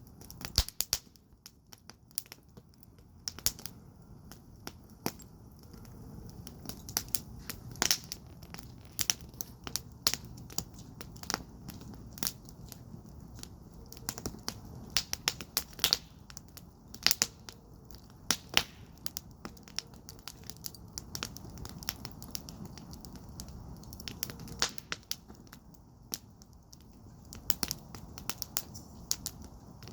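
Wood fire burning in a firepit, crackling and popping with sharp, irregular snaps over a steady low rush of flame.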